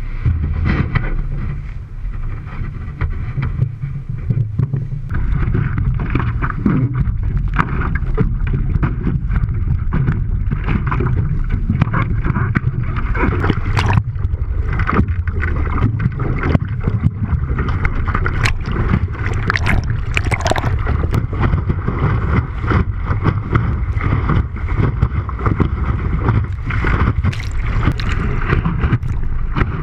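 Strong wind buffeting a GoPro microphone, a constant heavy rumble, while a windsurf board planes over choppy water, with water splashing and frequent sharp slaps of chop against the board.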